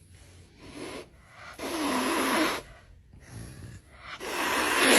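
An animal snoring: two long, loud, rasping breaths about two and a half seconds apart, with fainter breaths between them.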